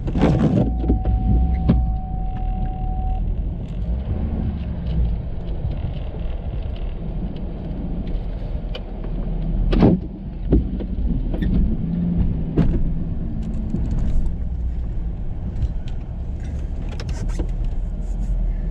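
Ford F-350 pickup running with a steady low rumble, with scattered knocks and clunks, the loudest about ten seconds in. A steady tone sounds for about three seconds near the start.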